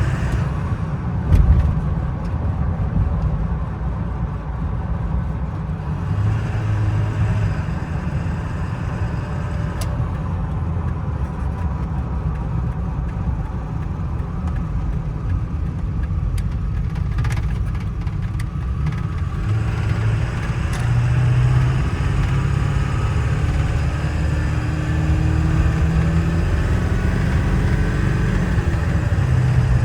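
Ford 7.3 L Powerstroke V8 turbo-diesel and road noise heard from inside the cab of a moving 1999 F-250: a steady low drone, with a single thump about a second and a half in.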